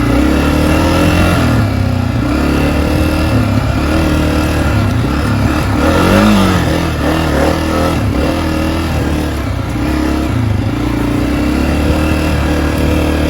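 Honda CRF250F dirt bike's single-cylinder four-stroke engine running under way on the trail, its revs rising and falling as it rides. There is a brief rev up and back down about six seconds in.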